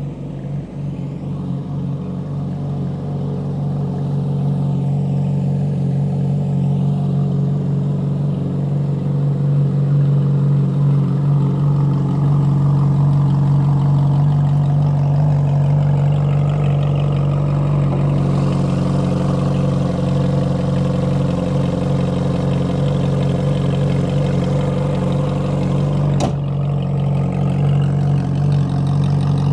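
Ferrari 458 Italia's 4.5-litre V8 idling steadily through an upgraded exhaust, with one sharp click near the end.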